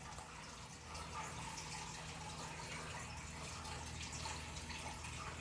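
Quiet room tone: a faint, steady low hum and hiss with no distinct events.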